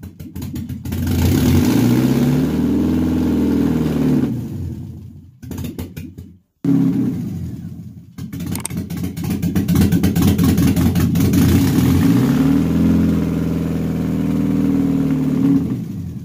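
Mercedes-Benz M111 2.2-litre four-cylinder petrol engine, freshly installed, running and being revved up and down several times. The sound breaks off briefly about five and a half seconds in, then the revving goes on.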